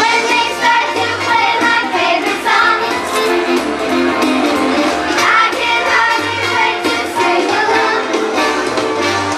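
Children's chorus singing with instrumental accompaniment that has a steady bass line.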